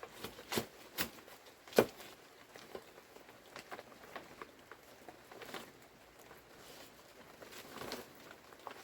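Household handling noises: three sharp knocks in the first two seconds, the loudest just before two seconds in, then scattered light taps and rustling.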